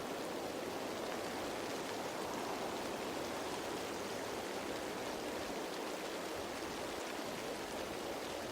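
Steady rain falling on leaves, a dense even patter.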